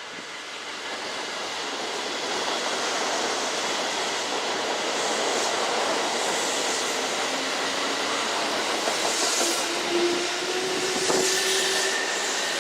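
Kintetsu electric train running past at a station, its rail noise building over the first couple of seconds and then holding steady. A faint rising whine joins in during the second half.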